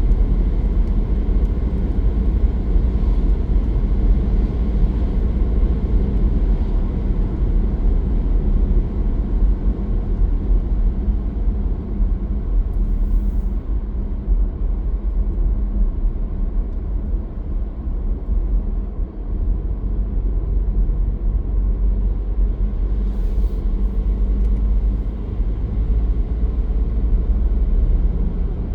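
Car driving on a rain-wet road: a steady low rumble of engine and tyres, with two brief high hisses about ten seconds apart.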